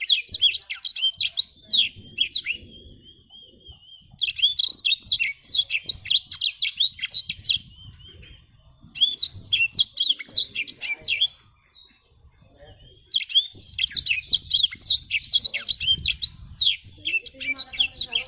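A black-throated canary (blackthroat) singing in long, fast, warbling phrases: four bursts of song broken by short pauses, with a quiet thin trill between the first two.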